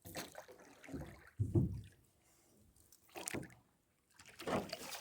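Water splashing and dripping around a small rowboat in a few irregular bursts, with a louder knock or splash about a second and a half in, as a fishing net is handled over the side.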